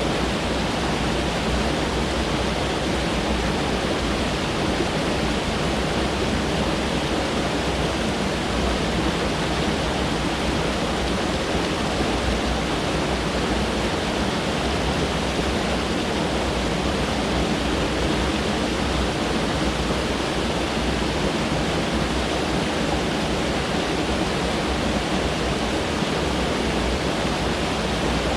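Mountain stream rushing over rocks: a steady, even roar of water with no breaks.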